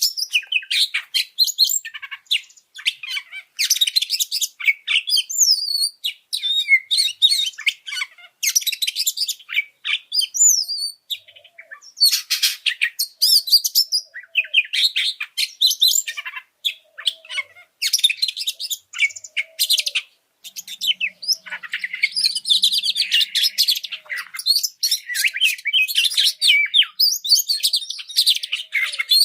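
Oriental magpie-robin (kacer) singing in an agitated, fired-up state: fast, varied runs of chattering notes and whistled glides in bursts, with short pauses between phrases, one of them about twenty seconds in.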